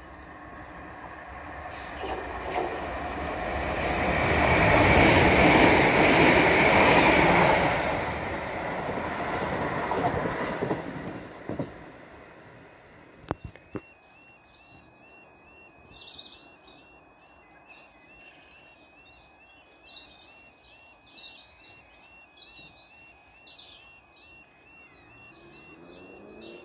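Southern electric multiple-unit train approaching and running along the platform: a rising rumble with wheels clattering on the rails, loudest about five to eight seconds in, then fading away. After a cut, birds chirp over a faint steady warbling tone.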